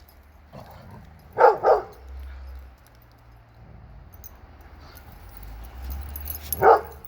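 A dog barking: two quick barks about a second and a half in, and one more near the end.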